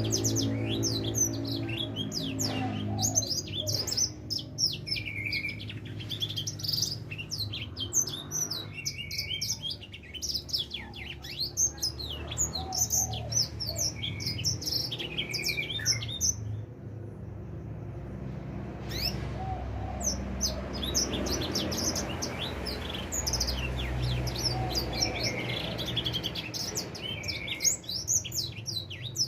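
Four-month-old grey singing finch (edel sanger), a young bird just coming into full song, singing long runs of rapid high twittering chirps and trills with a pause of about two seconds in the middle, over a low steady hum.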